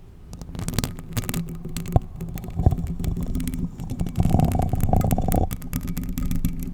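Long 3D nails scratching a paper cup and the bare Blue Yeti microphone itself: rapid scratchy clicks over a deep rumble from the mic being rubbed, loudest for a stretch past the middle.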